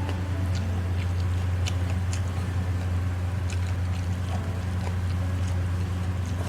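A steady low hum runs throughout, with scattered short clicks and smacks of someone chewing and eating.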